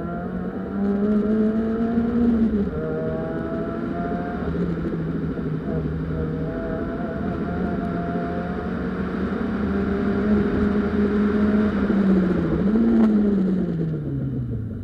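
Peugeot 206 1.6-litre four-cylinder rally car engine driven hard, heard from inside the cabin: the pitch climbs, drops sharply about two and a half seconds in and again about twelve and a half seconds in, then falls away steadily near the end as the car slows. A rushing hiss runs under it while the car is at speed.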